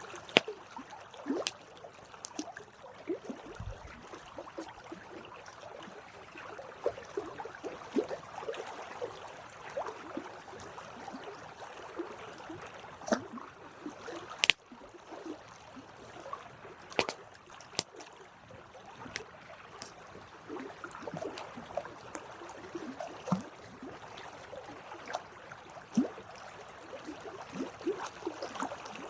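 Campfire crackling, with irregular small pops of burning wood and a few louder snaps scattered through.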